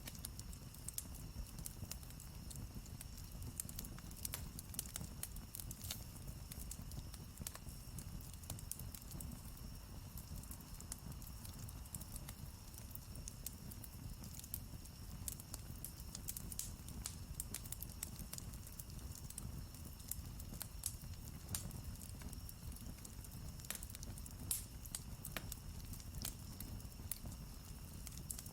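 Campfire crackling: wood burning with frequent irregular sharp pops and snaps over a steady low rumble of the flames.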